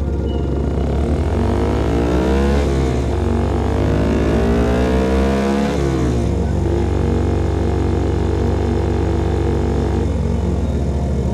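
Single-cylinder engine of a CFMOTO Papio SS mini motorcycle through a slip-on aftermarket exhaust, accelerating. The pitch rises twice, dropping with each upshift about three and six seconds in, then holds steady at cruising speed.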